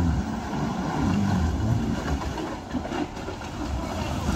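Land Rover Freelander's engine revving hard as it tries to push through a deep, water-filled mud rut in two-wheel drive, wheels churning and sloshing through the mud. The sound surges at the start, then rises and falls unevenly as the car struggles to get out of the rut.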